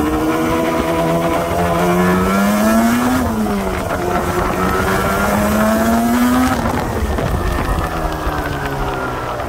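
1984 Yamaha RD350 (31K) two-stroke twin pulling away under way: the engine note rises, drops at a gear change about three seconds in, and rises again. Past the middle the throttle comes off and the note falls away slowly.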